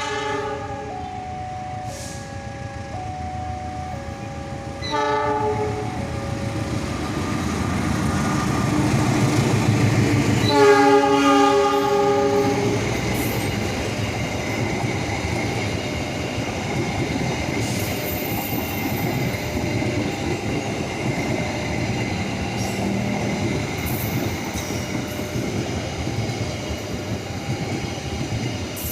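A GE CC206 diesel-electric locomotive hauling a passenger train sounds its horn, a short blast about five seconds in and a longer one about ten seconds in. The train then rolls past with a steady rumble and high wheel squeal. Throughout, a two-tone warning signal alternates about once a second.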